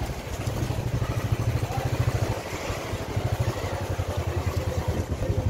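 Motorcycle engine running at low speed, heard from the rider's seat. Its steady firing pulses ease off briefly about two and a half seconds in, then pick up again.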